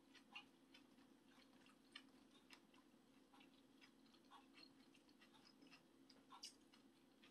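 Faint, quiet chewing of a mouthful of tofu and kimchi: soft, irregular small mouth clicks over a low steady hum.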